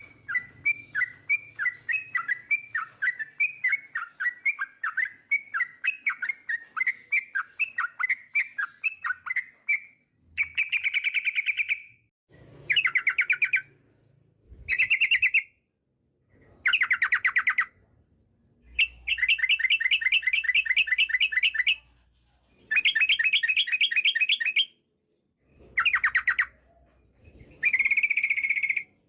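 Yellow-vented bulbul (trucukan) singing. It starts with a quick run of chirps, about five a second, for roughly ten seconds, then breaks into short, rapid chattering phrases of a second or two each, separated by brief pauses.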